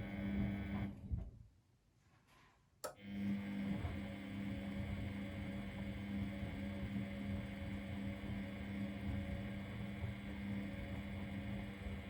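Miele Novotronic W921 washing machine running with a steady hum. About a second in it stops and goes nearly silent, then a sharp click comes and the hum starts up again.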